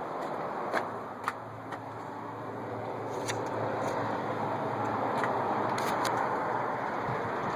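John Deere 4455 tractor's six-cylinder diesel engine running steadily, with a few sharp clicks early on and a slight rise in level about halfway through.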